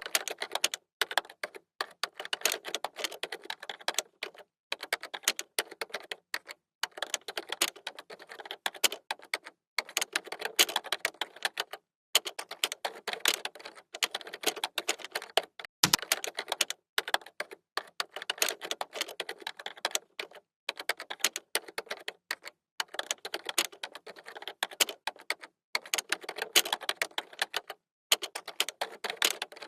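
Fast typing on a computer keyboard: rapid runs of key clicks broken by brief pauses every second or few, with one heavier knock about sixteen seconds in.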